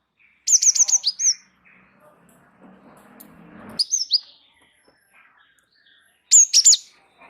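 Gelatik wingko singing: three bursts of rapid, high chirps with quick falling sweeps, a few seconds apart.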